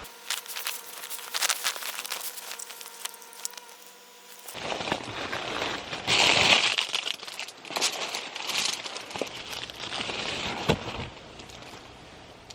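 Crinkling and rustling handling noise with scattered sharp clicks, changing abruptly about four and a half seconds in to a louder, denser crinkling that dies away near the end.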